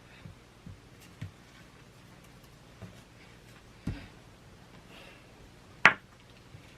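Scattered light taps and knocks of small plastic toy tools being handled on a tabletop, with a heavier thump just before four seconds and one sharp click about six seconds in.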